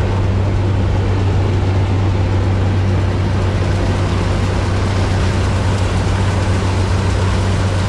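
Zmaj 142 combine harvester running steadily while threshing corn: a loud, even engine drone with a strong low hum.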